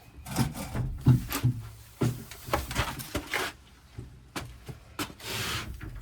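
Irregular knocks, clunks and scrapes from hands and tools working on the water-tank plumbing, with a longer rasping scrape near the end.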